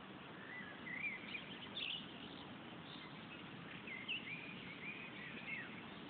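Small birds chirping in the trees: short rising and falling chirps in two bunches, one about a second in and another from about four seconds, over a steady background hiss.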